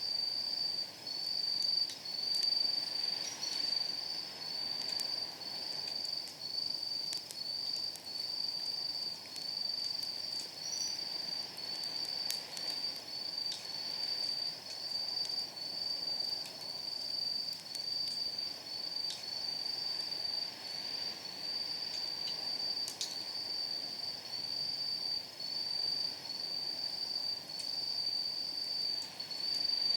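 Night insects, crickets by their sound, trilling high and continuously in pulses about once a second. Sporadic sharp crackles and pops come from firewood burning in a steel fire pit.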